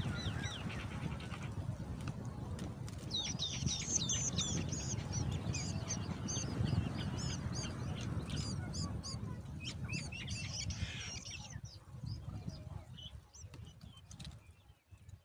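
Small birds chirping in a rapid, high-pitched series, over a steady low rumble that fades out near the end.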